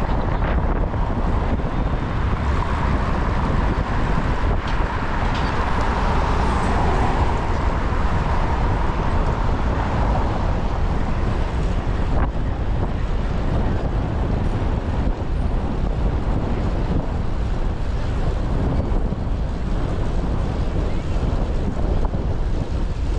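Wind buffeting an action camera's microphone while riding a bicycle through city traffic, with traffic noise underneath. A broad hum stands out through the first half and fades by about ten seconds in.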